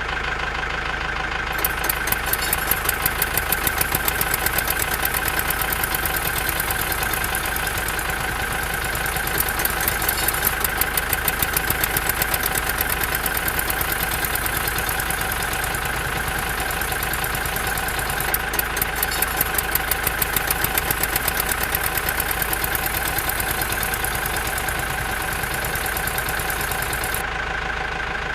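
Engine idling sound for a toy truck and tractor: a steady hum with a rapid, even clatter of about four ticks a second that starts about two seconds in and stops near the end.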